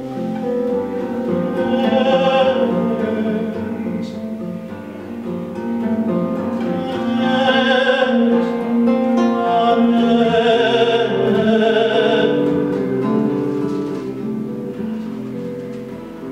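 Acoustic guitar playing a plucked accompaniment under a voice singing long held notes with vibrato, which swell about two seconds in, again around seven seconds and from ten to twelve seconds.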